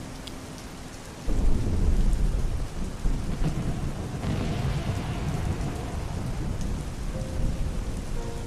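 Steady rain with a thunderclap breaking in about a second in, then a long low rumble of thunder rolling on under the rain.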